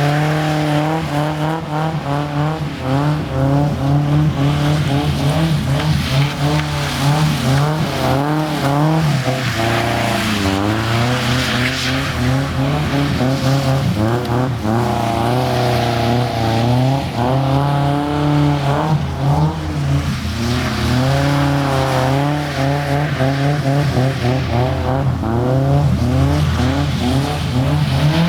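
Nissan 240SX engine revving up and down continuously as the car is drifted, with the pitch dropping sharply and climbing back about ten seconds in.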